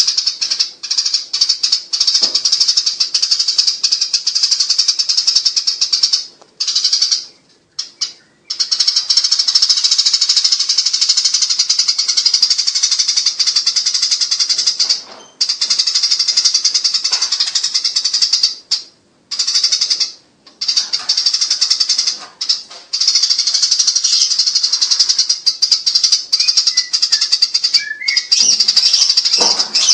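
Eurasian tree sparrows in a fighting chatter: high, fast, rattling calls that run on in long unbroken stretches with a few brief breaks.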